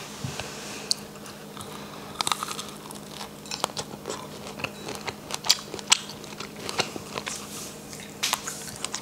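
Close-up mouth sounds of a person chewing a coconut-coated strawberry: many sharp, irregular wet clicks and crunches.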